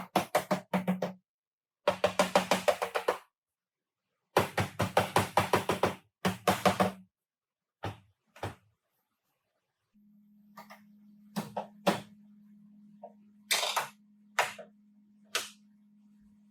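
Rapid runs of hammer blows, about eight a second, in bursts of a second or two with pauses between, as in panel beating on car body sheet metal. Later a steady low hum sets in, with a few single knocks over it.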